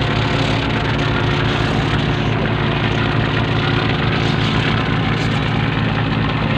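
Fishing boat's engine running steadily, with a constant low hum under a noisy wash.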